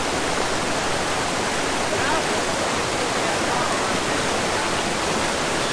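Steady rush of falling and flowing water from a waterfall and creek, with faint voices in the background.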